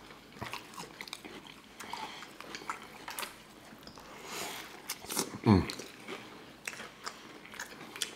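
Close-up chewing and biting of fried catfish sandwiches on white bread with coleslaw: wet mouth sounds with many small clicks and light crunches. About five and a half seconds in comes one short hum that falls steeply in pitch.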